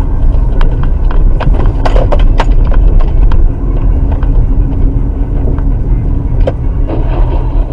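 Loud, steady low rumble of a moving car, with a cluster of sharp knocks and clatter over the first three seconds or so and one more knock about six and a half seconds in.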